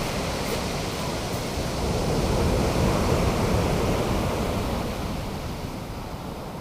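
Ocean surf breaking and washing up on the beach: a steady rush that swells about two seconds in and eases off toward the end.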